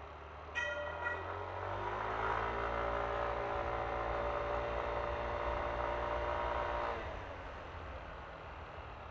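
Two short horn beeps, then a Yamaha Aerox scooter's engine accelerating for about five seconds, its pitch rising slowly, before the throttle eases off, with wind and road rumble underneath.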